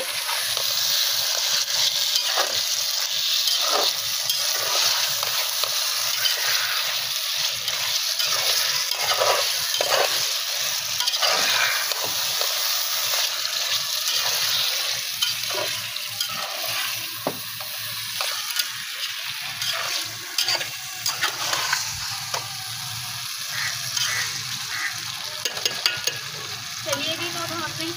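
Potato slices and masala frying in oil in a metal pot, sizzling steadily, while a metal spatula scrapes and knocks against the pot as they are stirred. The sizzle gets a little quieter in the second half.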